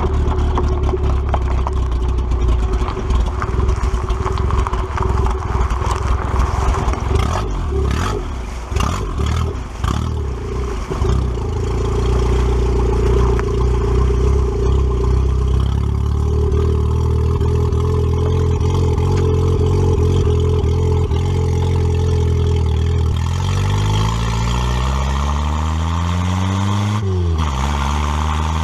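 Toyota Celica's carbureted engine running at idle with some clatter, then pulling away: after about twenty-three seconds the revs climb, drop briefly as it shifts up near the end, and climb again.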